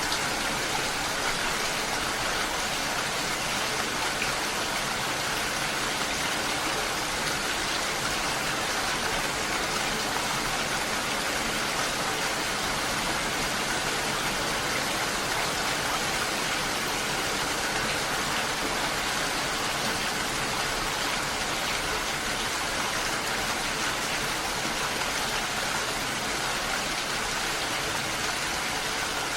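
Steady rushing of water, an even hiss with no change in level.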